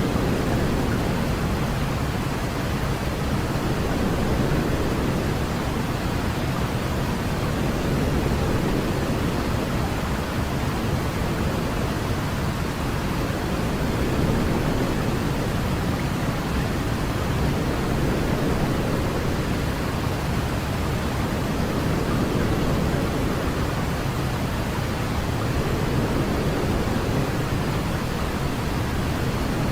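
Steady sleep-aid noise: an even, deep hiss heavier in the low end than the high, with slight, slow swells in level every few seconds.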